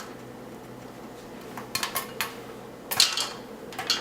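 First popcorn kernels popping in a hot pot of oil and butter: a handful of sharp, irregular pops over a low steady background, the sign that the corn has reached popping temperature.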